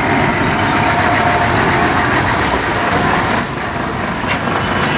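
A heavy vehicle running: a loud, steady mechanical rumble with a few brief high squeals in the second half.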